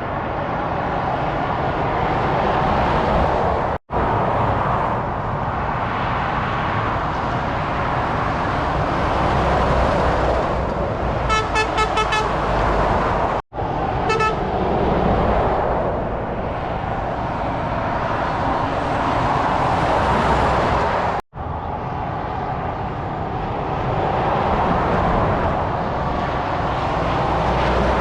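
Heavy motorway traffic passing, lorries and cars, with a steady rush of tyre and engine noise. About 11 seconds in, a vehicle horn gives a quick run of short toots, and another brief toot follows just after 14 seconds. The noise cuts out suddenly for a moment three times where clips are joined.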